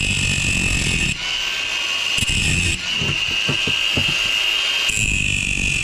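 Angle grinder cutting into a dishwasher motor to chop off stripped screws and free the copper windings. The disc holds a steady high whine, with rougher grinding noise coming and going as it bites into the metal.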